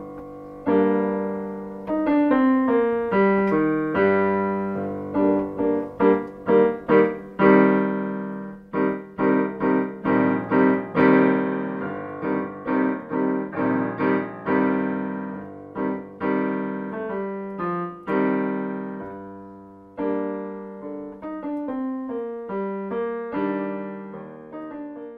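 Solo piano playing a slow piece, notes and chords struck and left to ring; a chord fades out about three-quarters of the way through before softer playing resumes.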